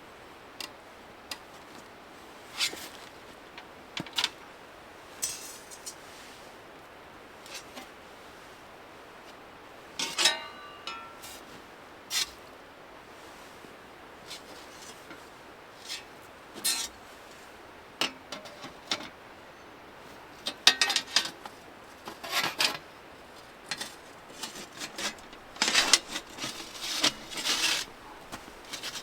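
Intermittent light clicks, taps and rustling of small objects being handled, with an occasional brief metallic ring; the handling gets busier near the end.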